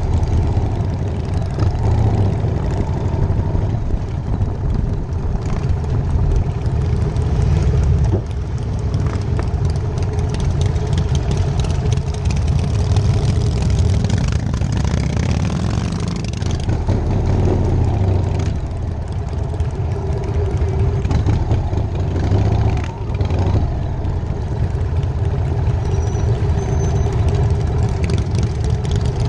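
1999 Harley-Davidson Night Train's V-twin engine running continuously on the road, its loudness rising and falling a little a few times as the throttle changes.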